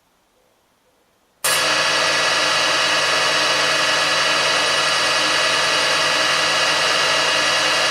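Metal lathe running, a steady mechanical hum and whine with several held tones, which starts suddenly about a second and a half in.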